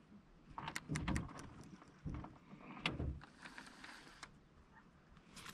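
Faint handling noise from a baitcasting reel and rod worked by hand: scattered short clicks and soft knocks, a few with low thumps, in small clusters about a second in, around two and three seconds, and once near four seconds.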